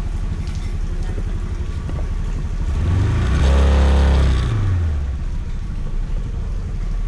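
Steady low engine rumble with fine regular pulses, like a motor idling. A vehicle passes close by, growing louder to a peak about four seconds in, then dropping in pitch as it goes away.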